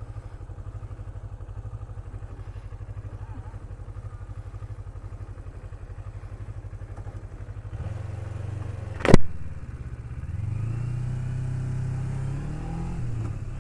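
Kawasaki Ninja 250R parallel-twin engine idling with a steady low pulse, then one sharp click about nine seconds in. After it the engine gets louder and its pitch climbs and drops as the bike pulls away.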